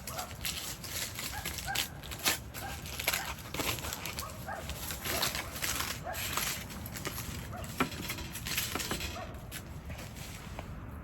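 A dog making brief high whines among steady rustling and many small clicks.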